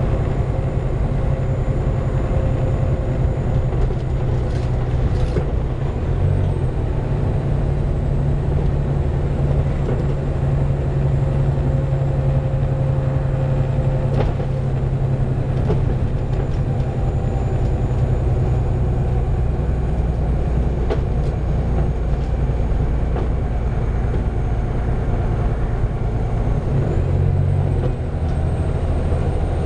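Volvo B7TL double-decker bus's diesel engine running steadily under way, heard from inside the bus. Its note shifts briefly about five seconds in and again near the end, and a faint steady whine sits above it for the first half.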